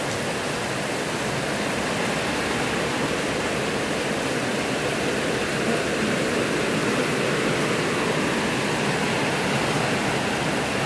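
Heavy rain pouring down in strong wind, a steady dense hiss with no letup.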